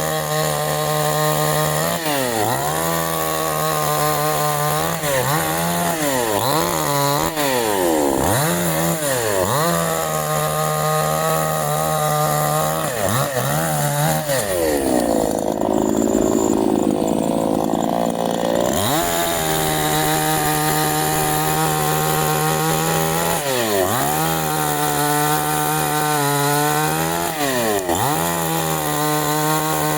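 Canfly 5800 two-stroke petrol chainsaw running, its engine note climbing and dropping again and again as it is revved and cuts into wood. About halfway through, the pitch sinks and the sound turns rougher for several seconds as the saw labours under load in the cut, then picks up again.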